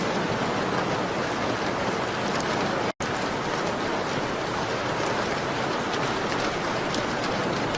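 Steady rain on a window, an even hiss with faint scattered ticks of drops. It cuts out completely for an instant about three seconds in.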